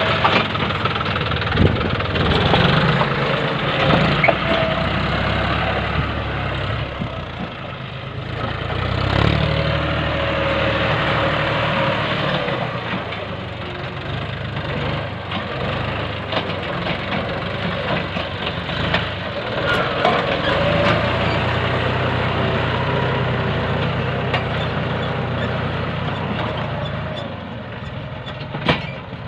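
Tractor engine running steadily under work, rising and falling a little in level, with scattered light clicks and knocks.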